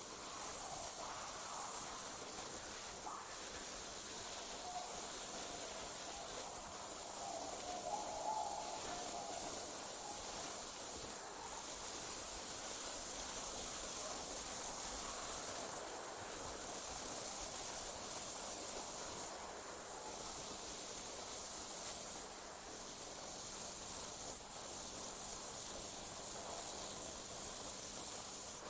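Crickets trilling in a continuous high-pitched chorus, broken by brief pauses every few seconds, over a faint lower background of further night insects.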